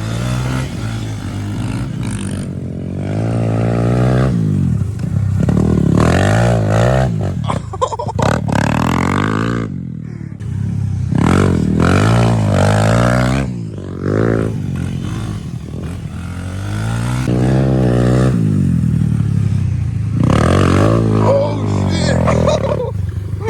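Small pit bike engine revving up and down repeatedly as it is ridden around a track, its pitch climbing for a second or two then dropping off with each throttle cycle, about six times.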